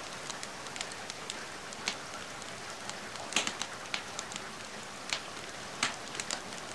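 Steady rain hiss mixed with a fireplace fire crackling, with sharp pops scattered irregularly throughout, the loudest about three and a half and six seconds in.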